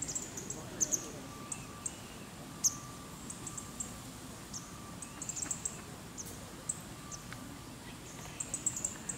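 Scattered short, very high chirps of small birds, in quick clusters, over a low steady outdoor background hum.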